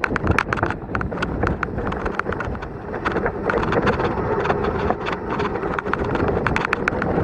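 Mountain bike rattling and clattering down a rocky, loose trail: many quick irregular knocks and clicks from the bike over the rocks, with a steady rush of wind on the camera's microphone.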